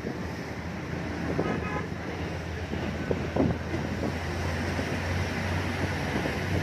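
Road vehicle running steadily, with wind buffeting the microphone and a short horn toot about one and a half seconds in.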